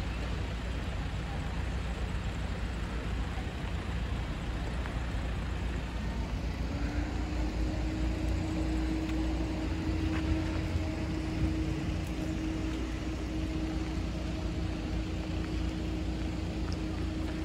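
Diesel train engine with a steady low rumble. About six seconds in, a single engine note climbs slightly and then holds steady.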